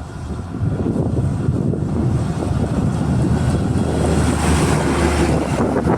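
Heavy traffic passing close by on a road: a low engine rumble with tyre and wind rush, growing louder about a second in, with the hiss strengthening in the second half.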